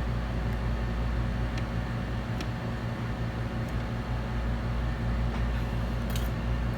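Hot air rework station blowing: a steady low hum with an even hiss of moving air, and a few faint ticks.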